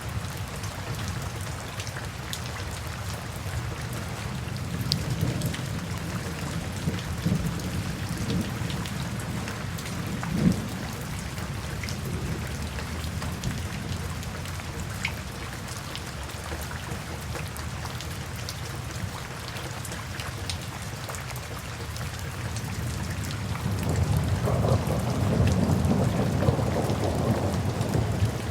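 Steady rain falling with low rolling thunder; a longer, louder rumble builds near the end.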